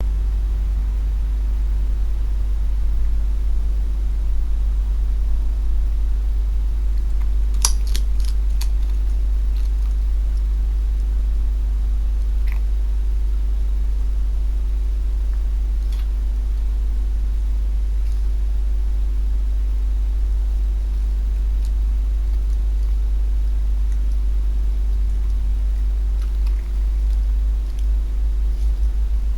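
Fox crunching on food, with a few sharp crunches about eight seconds in and single ones later, over a steady low electrical hum.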